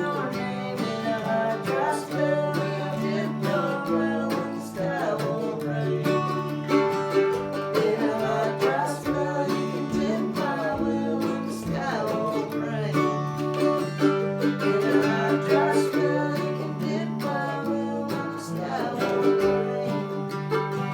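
Acoustic string band playing a country-style instrumental break: strummed acoustic guitar under picked lead lines on plucked strings, with a steady bass.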